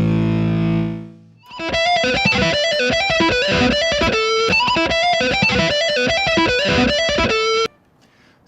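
Electric guitar through a Greer Southland overdrive pedal: a chord rings out and fades over the first second, then a quick run of picked single notes plays and stops abruptly near the end.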